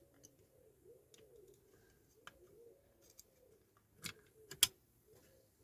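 Sharp clicks and taps of small model-car parts being handled and fitted, loudest a pair about four seconds in, over a faint, repeated cooing of a pigeon.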